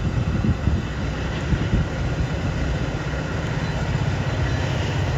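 Metra diesel commuter train running through the station, a steady low rumble of engine and rolling cars that gets a little louder near the end.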